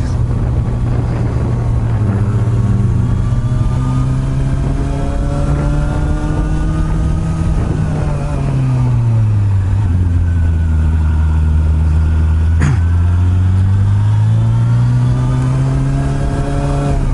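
Honda CB400 Super Bold'Or (NC42) inline-four with an aftermarket r's gear exhaust running under way: the engine note climbs slowly, drops about halfway through as the revs fall, holds low for a few seconds, then climbs again near the end. A single short click about two-thirds through.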